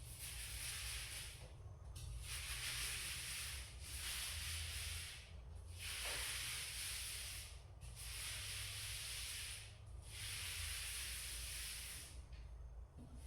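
Paint being spread on a wall in long rubbing strokes, six in a row, each lasting one and a half to two seconds with a short pause between.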